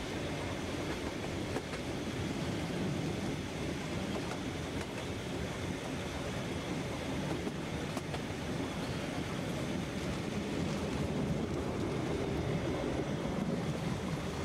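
Harz narrow-gauge railway train running, a steady rumble of the carriage wheels on the rails heard from aboard the train, growing slightly louder in the second half.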